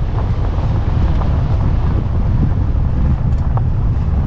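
Wind buffeting the microphone: a loud, steady low rumble with faint scattered ticks.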